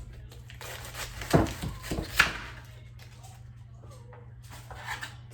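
Kitchen work noises: a cluster of sharp knocks and clatter, loudest about one and a half and two seconds in, over a steady low hum.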